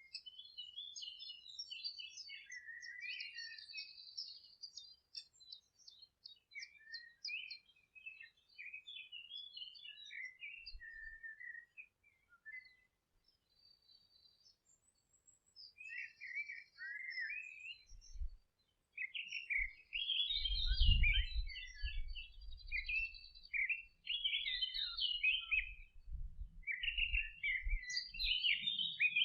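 Several small birds singing, a busy mix of quick twittering phrases, chirps and trills that pauses briefly about halfway through. A low rumble runs under the second half, strongest a few seconds after the birds resume.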